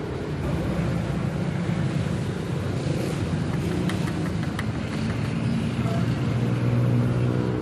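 Car engine idling steadily, its hum growing a little louder and clearer in the second half, with a few light clicks around the middle.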